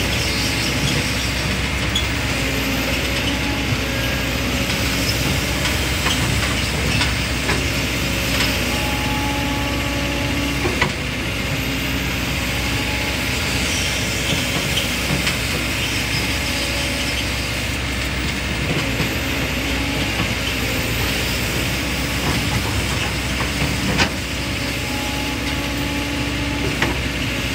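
Excavator's diesel engine running steadily, its pitch shifting now and then, with a few sharp knocks.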